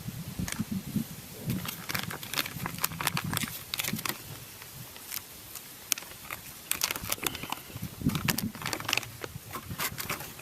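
Irregular crinkling and clicking with soft low knocks scattered throughout, the sound of something being handled or stepped on.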